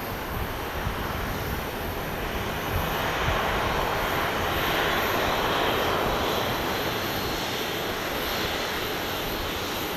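Airliner's engines passing, a steady rushing roar that swells to its loudest about five seconds in, then eases off slightly.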